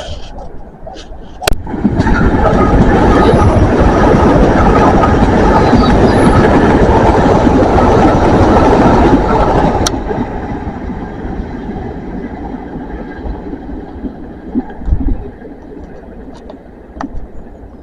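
A train passing at close range, a loud steady rush of wheel and engine noise that starts suddenly about a second and a half in and cuts off abruptly about ten seconds in, leaving a quieter rumble.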